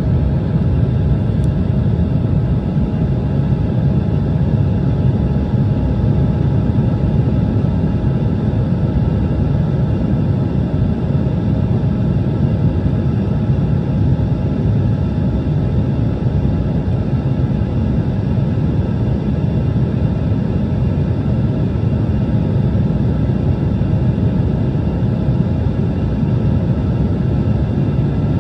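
Steady cabin noise inside an Embraer ERJ-175 airliner with its GE CF34 turbofan engines running at power: a continuous deep rumble with faint steady engine tones above it.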